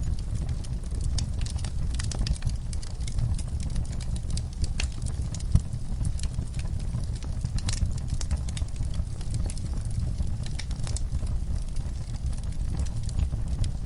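Wood fire crackling in a fireplace: irregular sharp crackles and pops over a steady low rumble of the flames, with one louder pop a little past the middle.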